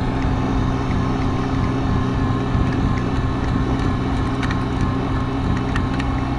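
Diesel tractor engine running at a steady speed, a continuous low drone.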